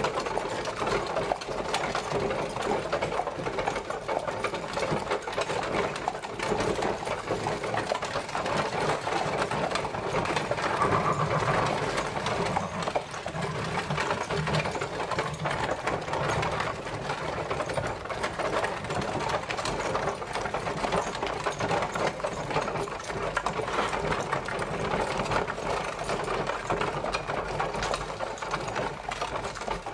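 Horse-drawn carriage on the move: a steady, dense rattle and clatter of its wooden wheels and body.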